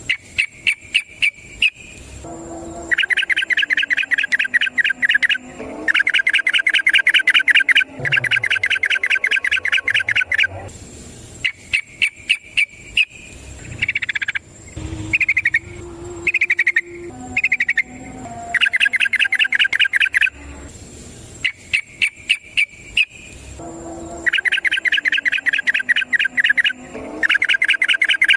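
Yellow-vented bulbul (trucukan) singing its long rapid trilled song (ropel): fast runs of repeated notes a few seconds long, one after another with short pauses, and a few sliding whistled notes midway.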